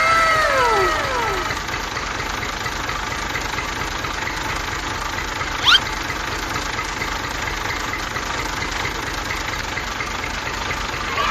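Steady, even running of an engine-like motor with a faint regular knock. A falling tone is heard in the first second and a half, and a short rising chirp about six seconds in.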